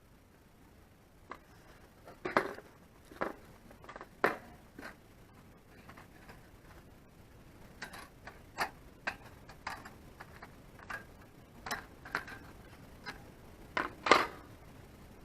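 A series of irregular short knocks and clicks from hard objects being handled, with a few louder knocks about two seconds in, about four seconds in and near the end.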